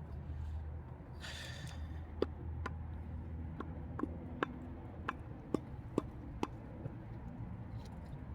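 Light, sharp clicks and taps, about eight of them at uneven spacing, from parts and hand tools being handled while seals are fitted on an engine. A short hiss about a second in, over a low steady hum.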